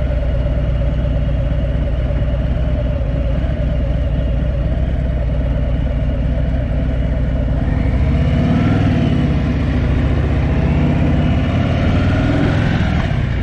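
Harley-Davidson Heritage Softail's V-twin engine running on the road. Its note rises and falls from about eight seconds in as the bike speeds up.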